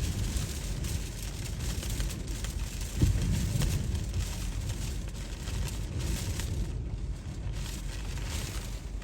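Typhoon wind gusting and buffeting the microphone, a low rumble under a broad hiss of wind and rain, with a strong gust about three seconds in.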